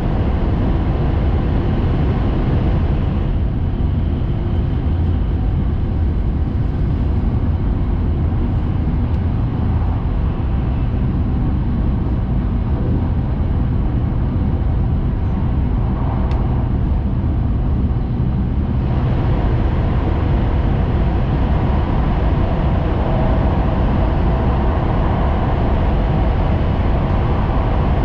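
Cabin noise of a Tohoku Shinkansen Hayabusa train running at speed: a steady, loud low rumble with a rushing hiss above it. The hiss fades for a stretch from a few seconds in until near two-thirds of the way through, then comes back.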